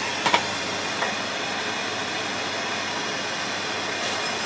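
Torch flame burning with a steady hiss, heating a seized transmission mount bolt to free it from the rubber mount it seems stuck to. Two light metal clicks come shortly after it begins.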